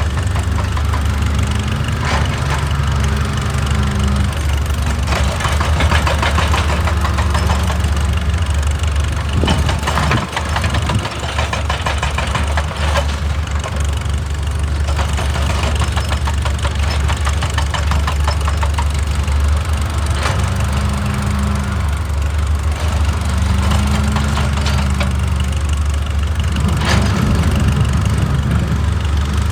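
Excavator's diesel engine running steadily, its pitch swelling briefly a few times as the machine works. Scattered knocks and scrapes of the bucket on rock, the sharpest about ten seconds in and near the end.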